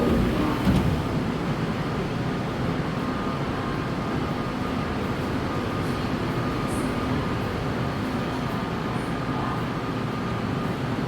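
Seoul subway train running, a steady rumble with a faint constant whine.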